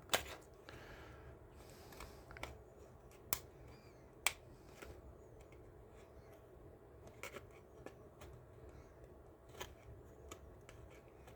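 Scattered sharp clicks and snaps of glued plastic model-car parts being pried apart by hand, a second or more apart, the loudest at the very start and about four seconds in.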